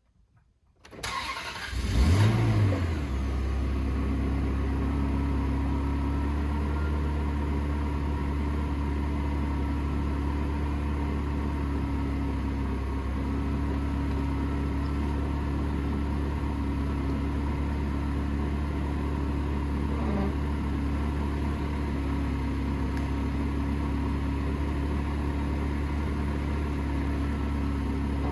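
Ferrari 360 Spider's 3.6-litre V8 cranked by the starter about a second in. It catches with a brief rev, then settles into a steady idle.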